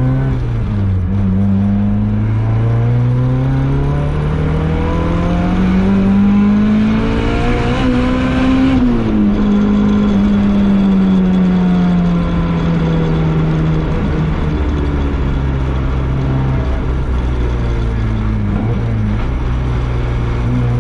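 Turbocharged SR20VET 2.0 L inline-four in an FC3S RX-7 pulling under boost, its pitch climbing for about nine seconds with a growing intake rush. The rush cuts off suddenly and the revs fall away and settle into a steady lower run: the home-made intercooler has split its weak welds and the boost is lost, which the owner first took for a popped-off boost coupler.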